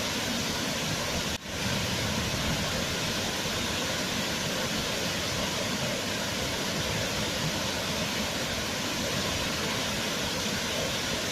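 Waterfall: a steady, even rush of falling water, with a brief dip in level about a second and a half in.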